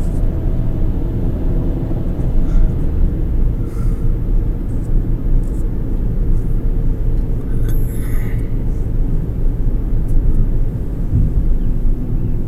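Kia Soul driving, heard from inside the cabin: a steady low rumble of engine and road noise.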